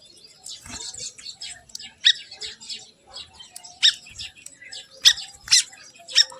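Birds chirping and calling in quick short notes, with four sharp, loud calls standing out about two, four, five and five and a half seconds in.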